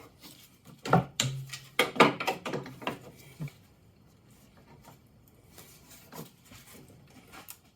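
Steel scooter engine-door panel being pulled on and handled: a cluster of knocks and clunks over a couple of seconds about a second in, then faint handling noises.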